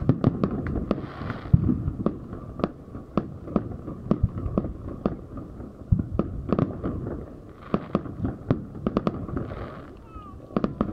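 Fireworks display: aerial shells and firecrackers going off in a rapid, irregular run of bangs and pops, several a second.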